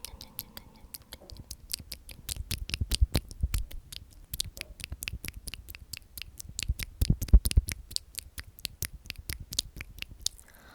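Rapid, crisp clicks and taps close to the microphone, several a second, with a few heavier low thumps in the middle.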